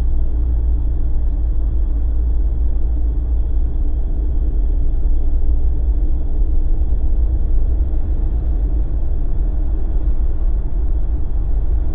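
Steady low rumble of a Jeep driving, heard from inside the cabin: engine and tyre noise, even throughout with a faint constant hum.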